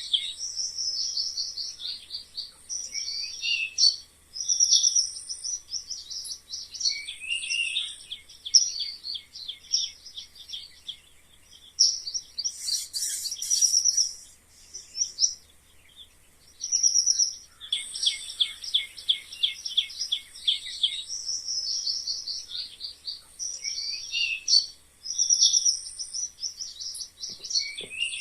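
Mice squeaking: long runs of rapid, high-pitched chirping squeaks with short falling notes, broken by brief pauses a few times.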